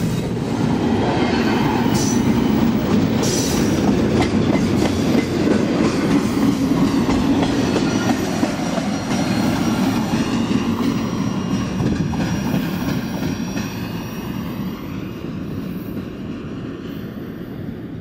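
Double-stack container train's well cars rolling past on steel rails, a dense rumble of wheels with some sharp clacks. The last car goes by about halfway through and the rumble fades as the train moves away.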